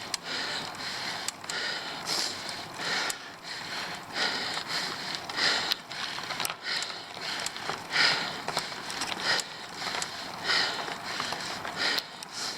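A cyclist breathing hard on a steep climb, with repeated loud exhalations about once a second, and a few sharp small clicks from the bike in between.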